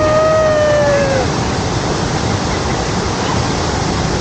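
Steady rush of a high-flowing waterfall and river. In the first second and a half a voice gives one long held call that falls away.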